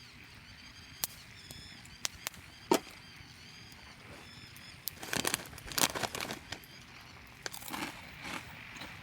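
Sharp pops from a crackling wood campfire, the loudest about three seconds in. From about five seconds in comes a stretch of rustling and crunching.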